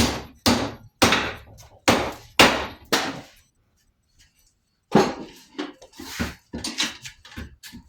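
Hammer blows on a metal bar being bent, about two strikes a second, each ringing briefly. After a pause of about a second and a half in the middle, a quicker run of lighter taps follows.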